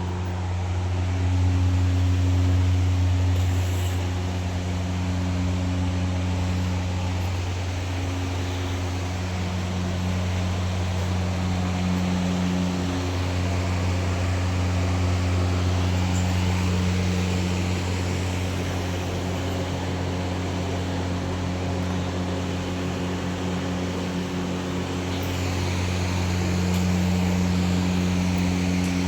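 An engine or motor running steadily with a constant low hum.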